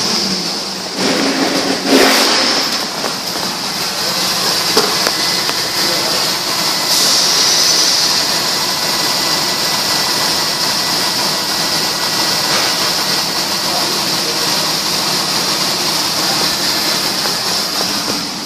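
2002 Dodge Durango engine idling steadily, with a brief louder surge about two seconds in and a steady high-pitched whine over the idle.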